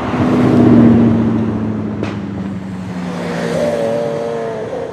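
Bugatti Chiron's quad-turbo W16 engine driving past, loudest about a second in with its pitch falling slightly. A second, higher engine tone swells near the end.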